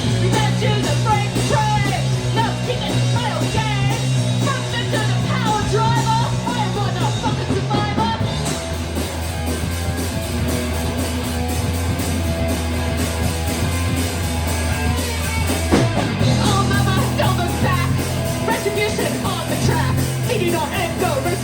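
Rock and roll band playing live, with singing over guitar and drums. The vocals drop out for an instrumental stretch in the middle and come back a few seconds before the end.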